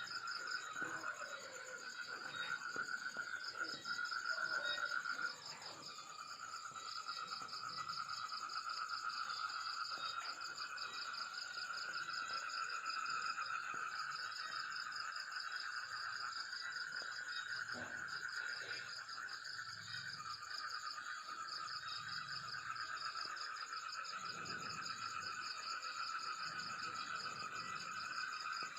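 A steady night chorus of trilling calls, several pulsing trills layered at different pitches.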